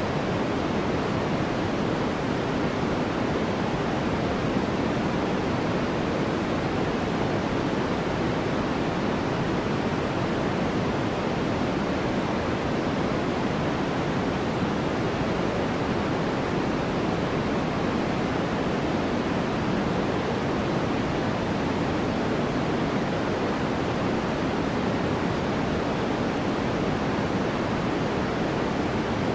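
Steady white noise for sleep: a constant, even hiss with no changes, heavier in the low-middle range than in the treble.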